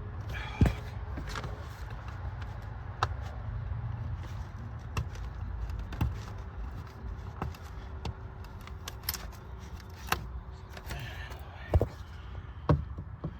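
Scattered sharp clicks and knocks from things being handled in a vehicle, over a steady low rumble. The loudest knocks come less than a second in and again near the end.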